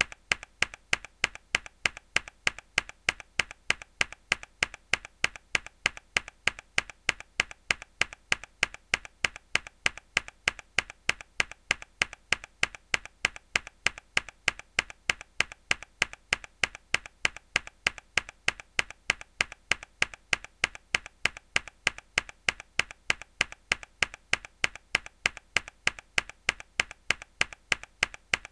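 A single mechanical keyboard key pressed hard, repeated at an even rate of about three sharp clicks a second.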